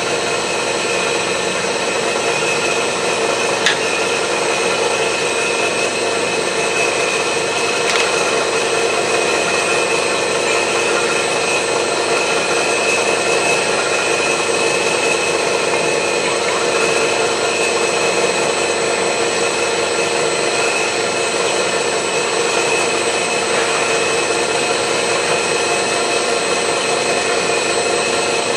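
Milling machine running steadily, with a whine from its drive and the cutter taking a long, even cut in metal.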